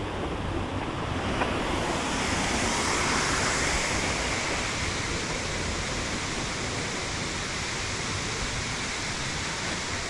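Steady rushing of a waterfall, getting louder and brighter about two seconds in.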